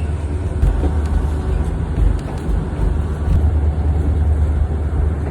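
Kuranda Scenic Railway train in motion: a steady, loud low rumble with a few faint clicks.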